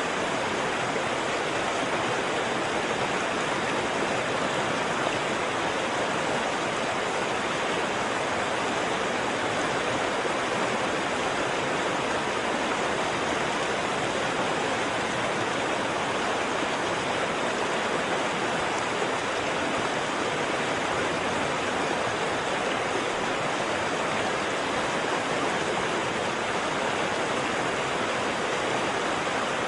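Waterfall: water falling and splashing in a continuous, even rush with no breaks.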